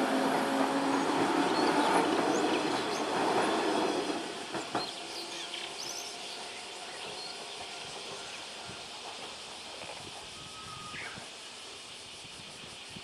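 Electric train passing over a level crossing, its wheels rumbling and clacking on the rails; the noise dies away about four seconds in as the train moves off, leaving a quiet background with a few faint high chirps.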